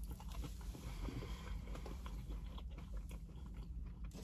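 A person chewing a mouthful of crinkle-cut fries close to the microphone: faint, irregular chewing clicks over a low steady hum.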